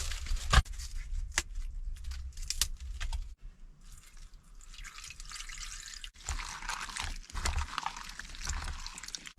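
A pot of noodle soup bubbling on a charcoal heating stove, with a few utensil knocks in the first three seconds.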